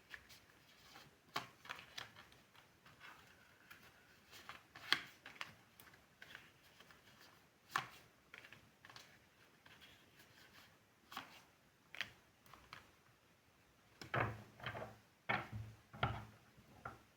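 Tarot cards being handled and laid down on a table: scattered quiet taps and light slaps with faint rustling between them, and a quick cluster of taps near the end.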